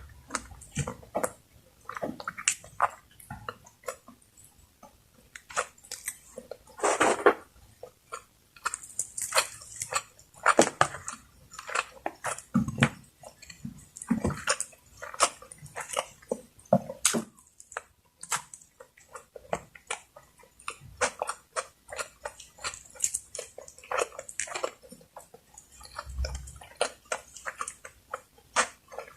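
Close-miked mukbang eating sounds: wet chewing and mouth smacks, many short clicks in quick succession with a few louder, longer wet swells.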